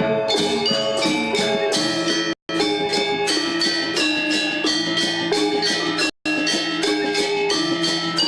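Balinese gamelan gong ensemble playing a classical lelambatan piece: bronze metallophones ringing in dense, layered patterns with drums. The sound cuts out abruptly for a split second twice.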